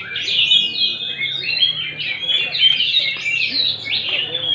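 Several songbirds singing at once, a dense, continuous tangle of overlapping whistles, trills and chirps.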